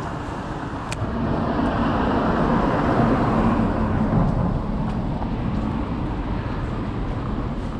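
City street traffic: a motor vehicle passes close by, its engine and tyre noise swelling from about a second in, peaking mid-way and then fading.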